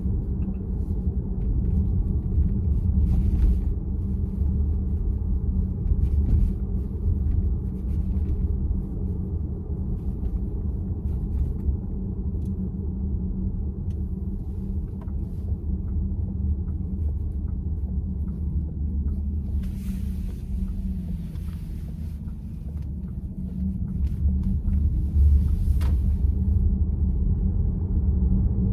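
Steady low road and tyre rumble inside the cabin of a moving VW ID.4 electric car, with a brief rise of hiss about twenty seconds in.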